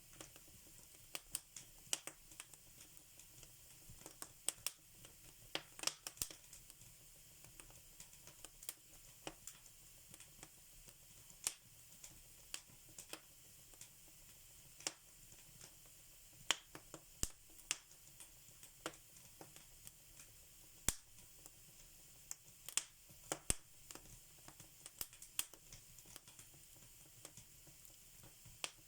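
Wood fire in a fireplace crackling: irregular sharp snaps and pops, one or two a second, over a faint steady hiss.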